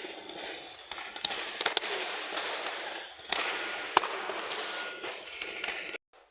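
Busy indoor training noise with many sharp slaps and knocks scattered over a steady din, cutting off suddenly about six seconds in; typical of strikes landing on pads and mats in a martial-arts hall.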